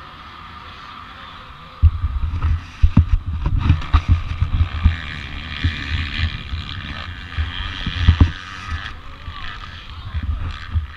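Small single-cylinder four-stroke dirt bike engine running at speed. From about two seconds in, heavy irregular low thumps and rumble hit the microphone.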